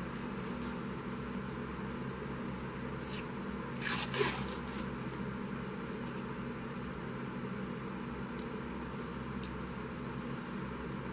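Paper and tape being handled on a craft table: two short rustles about three and four seconds in, over a steady low hum.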